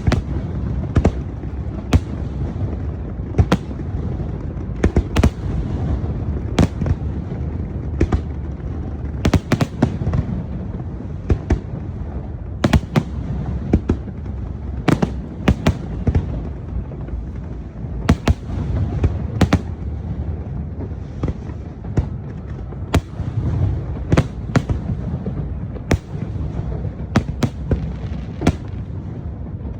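A fireworks display going off: a steady deep rumble of booms with many sharp cracks and bangs on top, coming irregularly, often several a second.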